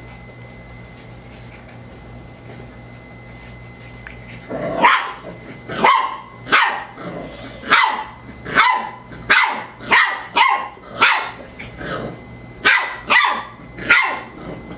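A dog barking over and over at a cat, about one bark a second, starting about four and a half seconds in. Before the barking there is only a faint steady hum.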